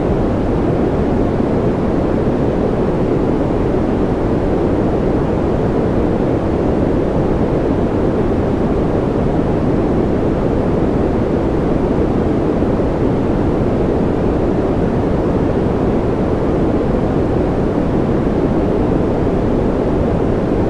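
Steady, unbroken white-noise track of the kind played to soothe babies to sleep: a deep, even hiss, heaviest in the low and middle range and thinning toward the top, with no change.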